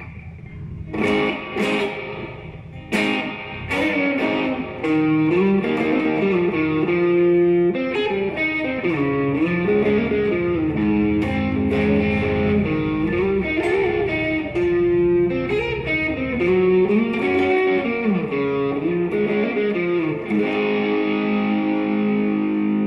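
Electric guitar through a Line 6 HX Stomp set to a plate reverb, playing a slow ambient worship-style melody: a few sharply picked notes, then a flowing single-note line whose notes ring on into each other, settling into held notes near the end.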